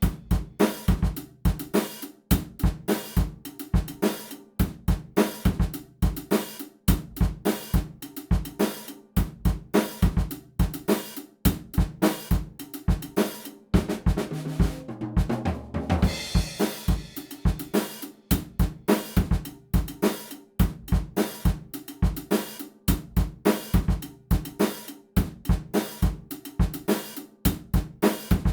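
Background music carried by a drum kit: a steady, fast beat of kick, snare and hi-hat, with a cymbal wash about halfway through.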